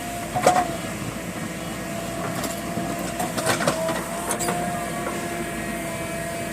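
JCB backhoe loader running steadily with a constant whine, broken by a few sharp metallic clanks, the loudest about half a second in and a cluster in the middle.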